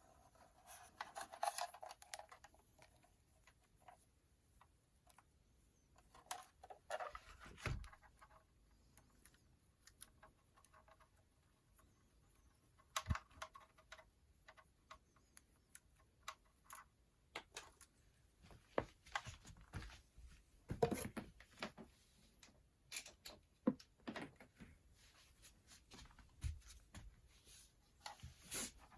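Quiet handling noises: scattered light clicks, taps and brief rustles at irregular intervals.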